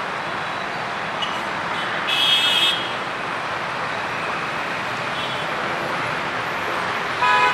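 Steady road-traffic noise, with a vehicle horn honking briefly about two seconds in and again near the end.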